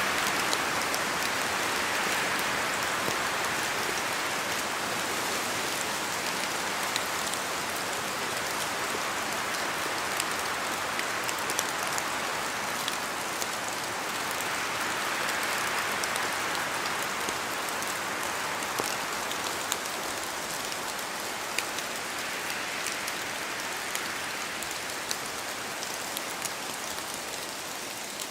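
Steady rain falling in a forest, a dense hiss that swells and eases several times as wind moves through the trees, with scattered sharp ticks of drops landing. It grows slightly quieter toward the end.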